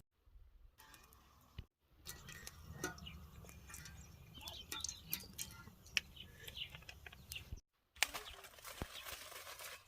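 Faint outdoor ambience with scattered bird chirps and a few light clicks over a low hum, broken by two brief dropouts to silence.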